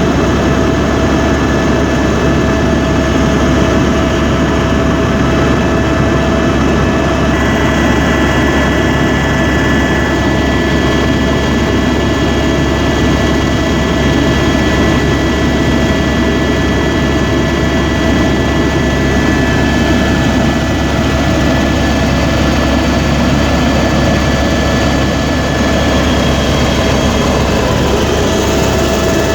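Helicopter in flight, its turbine engine and rotor running steadily with a constant whine over a dense rumble. A higher whine joins about seven seconds in and fades out past the middle.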